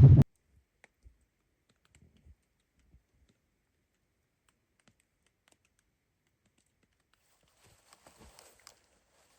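Wind buffeting the microphone, cut off abruptly just after the start, then near silence broken only by a few faint scattered clicks and crunches.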